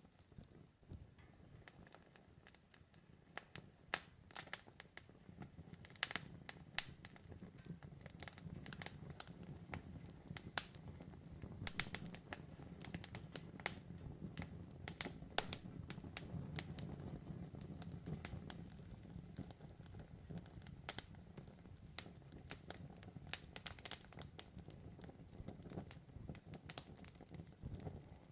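Wood fire crackling, with irregular sharp pops and snaps over a low rumble of burning that swells through the middle.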